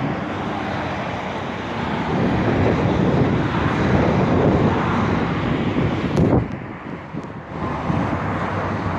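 Steady outdoor rushing noise of wind and road traffic, swelling in the middle and dipping briefly near the end.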